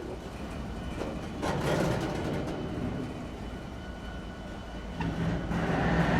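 Train rolling past with a steady low rumble of wheels on rails, a louder low hum coming in about five seconds in.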